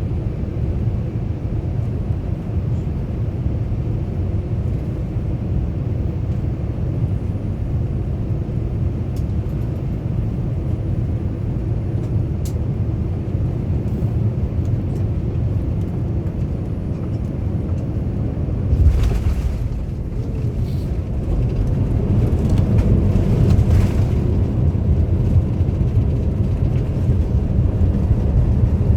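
Boeing 787-9 landing, heard from inside the cabin: a steady low rumble, then a sudden thud about two-thirds of the way through as the wheels touch down. After it comes a louder rumble with rattles as the airliner rolls out and slows on the runway.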